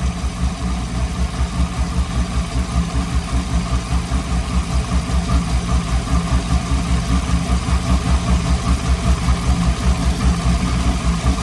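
Chevrolet Camaro SS 1LE's 6.2-litre V8 idling on Speed Engineering 2-inch headers and a 3-inch X-pipe exhaust, with a steady, evenly pulsing beat. The engine has not been revved and is not yet fully warm.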